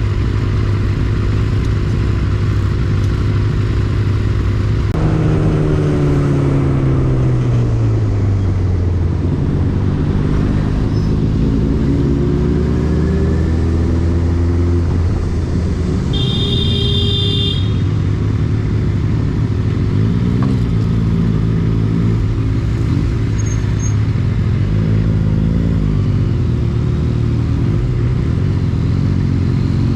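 Benelli TnT 600i's inline-four engine running as the bike is ridden. The engine note drops about five seconds in, then climbs steadily for several seconds. Later come a few short rises and falls in the revs, with a brief high-pitched tone about halfway through.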